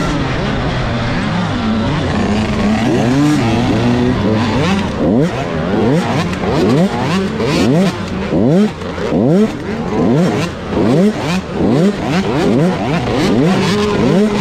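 Motocross dirt bike engine running on the track, held fairly steady at first. About a third of the way in it starts revving up and dropping back again and again, roughly once a second, as the throttle is opened and closed.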